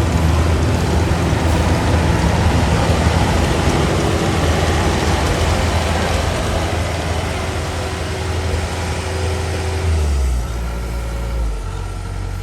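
A heavy engine running steadily with a loud low rumble and a wide noisy wash over it; about ten seconds in it eases off and its note changes.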